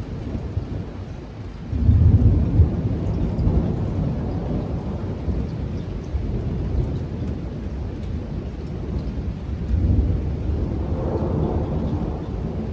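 Thunder over steady heavy rain: a loud low clap and rumble about two seconds in that rolls on for several seconds, then a second roll of thunder near the end.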